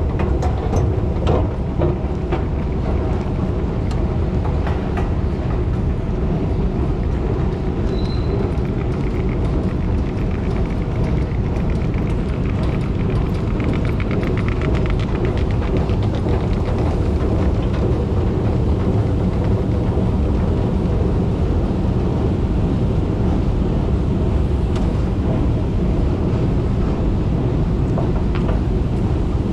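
Passenger train running: a steady, loud rumble, with a faint whine that rises between about ten and sixteen seconds in.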